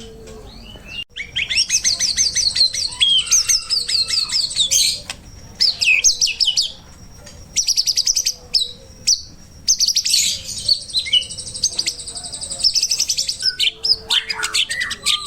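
White-rumped shama (murai batu) singing: long runs of fast, high trilled notes broken by short whistled phrases and brief pauses.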